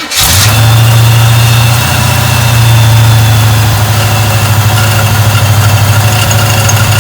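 Chevrolet 350 small-block V8 catching right away from the starter and running steadily, a loud, low, pulsing engine note, on a second start after the wobbling fan's mounting bolts were tightened.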